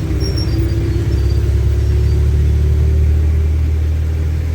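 A motor vehicle's engine running with a steady low rumble. It grows louder from about a second in, under a faint tone that slowly rises in pitch.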